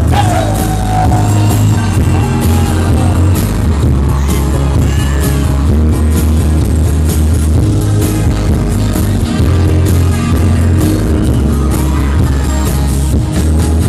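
Live pop band playing a song with singing over a steady beat of drums and bass.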